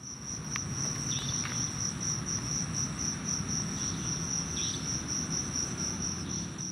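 An insect trilling, cricket-like: one steady high note pulsing rapidly without a break, over a low background rumble. A few faint short chirps are heard on top.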